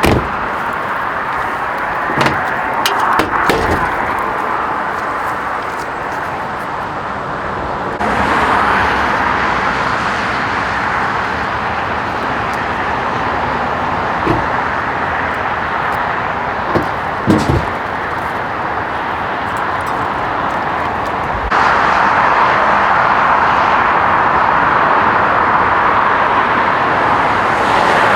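Steady vehicle and engine noise, stepping louder twice, with a few short clunks and clicks like car doors.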